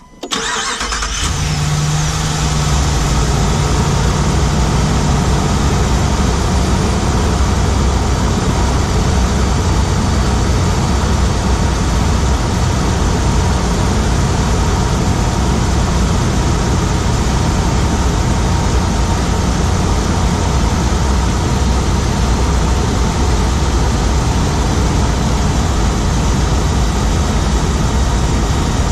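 2017 Ram 1500's 5.7 L Hemi V8, heard from inside the engine compartment on the driver's side, starting up and then running steadily. A ticking is present that the owner wonders is the Hemi tick or something else.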